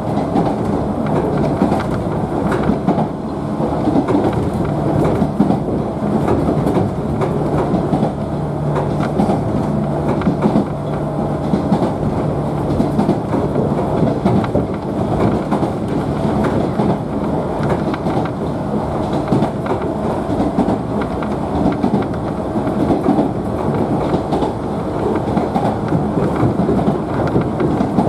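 Inside a JNR 113 series electric multiple unit motor car running between stations: a steady rumble of wheels on rail, with a hum from the traction motors and the clack of wheels over rail joints.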